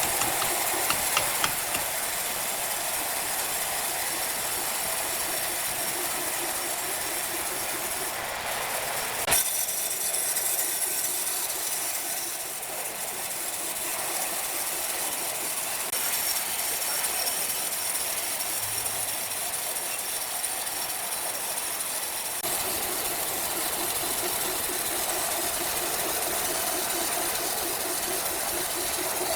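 Sawmill machinery running steadily, a loud, even hiss over a low machine hum, with a sharp click about nine seconds in.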